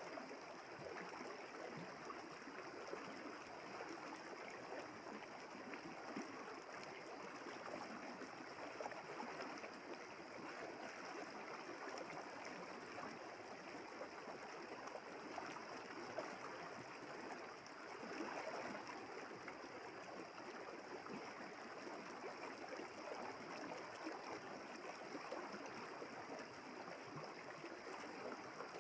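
River water flowing: a steady rush and trickle with no breaks.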